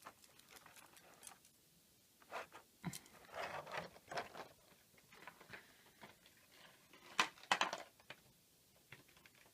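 Small plastic action-figure parts clicking and scraping under the fingers as the head pieces are worked apart. Scattered small clicks and rubs, with a louder cluster of clicks about seven seconds in.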